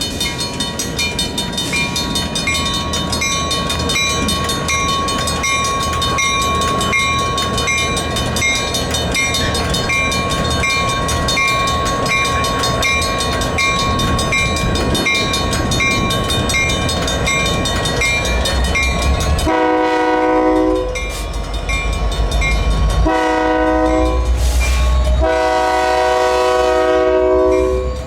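Railroad crossing signal bell dinging steadily at an even pace over the low rumble of an approaching Union Pacific locomotive. About two-thirds of the way in, the locomotive's horn sounds three blasts, the last one the longest.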